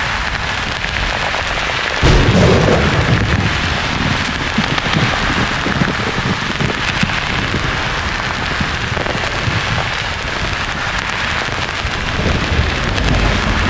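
Steady white-noise hiss, like heavy rain, with a thunderclap breaking in suddenly about two seconds in and rolling on as low rumbling.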